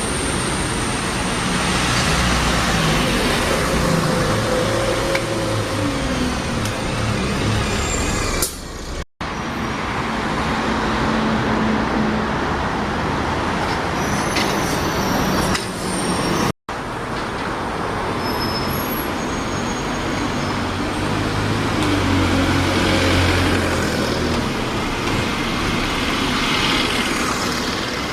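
Buses running and passing in road traffic, the engine sound rising and falling; it breaks off twice where the footage is cut.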